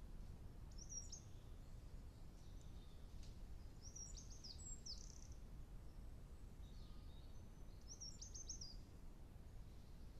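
Faint high-pitched bird calls in woodland: three short chirping phrases, about a second, four and a half seconds and eight and a half seconds in, over a low steady rumble of background noise.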